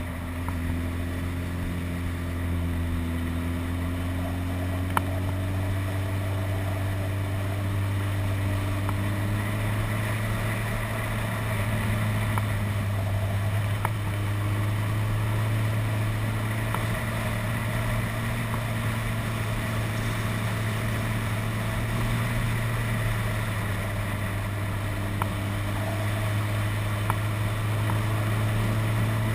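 Motorcycle engine running at a steady cruise, its pitch drifting slowly up and down with the throttle, over a steady rush of wind noise.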